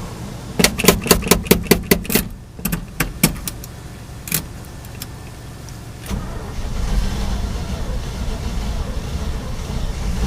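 1968 Chevy C60 dump truck's 283 small-block V8 being cranked on a hard cold start after priming. It sputters in a quick string of sharp pops as it tries to catch, fires a few single pops, goes quieter, then cranks again from about halfway through without starting.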